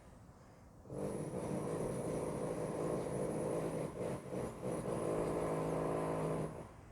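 A train's steady pitched drone with a faint high whine over it, starting abruptly about a second in, with a brief dip partway through, and cutting off shortly before the end.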